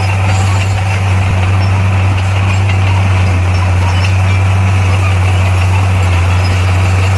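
Heavy diesel engine of earthmoving machinery running steadily, a loud, low, unchanging drone.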